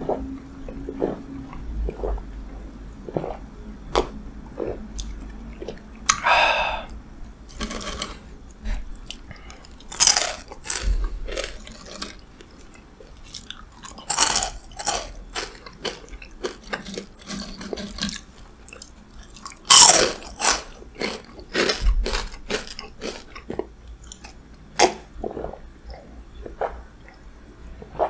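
Close-miked crunching and chewing of crispy fried snacks: sharp, irregular bites and crunches, each followed by softer chewing, the loudest about ten and twenty seconds in.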